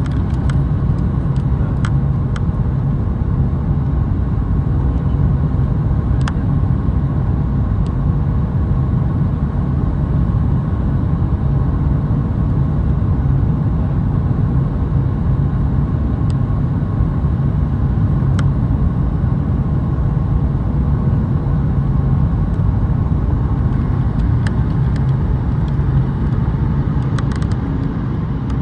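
Steady low rumble of a Boeing 737 MAX airliner's engines and airflow heard from inside the cabin during landing, with a faint steady hum and a few small clicks.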